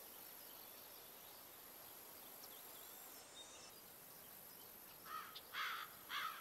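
Faint steady outdoor hiss. About five seconds in, a bird starts calling: three short caws, each rising then falling in pitch, about half a second apart.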